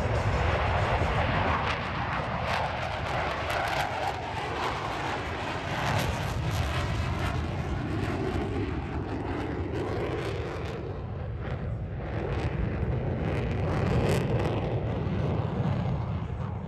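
Military jet aircraft flying a low airshow pass: a continuous, rushing jet engine noise that swells near the start and again near the end.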